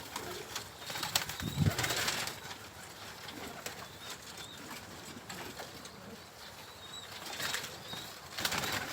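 Domestic pigeons, with two short rushes of wing flapping, about two seconds in and again near the end, and faint cooing.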